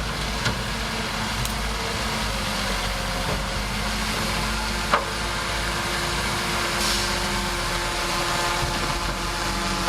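Bulldozer's diesel engine running steadily, with a single sharp clank about five seconds in.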